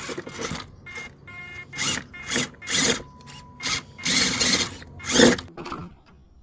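RC rock crawler scraping and rubbing over rough ground in irregular bursts of scraping.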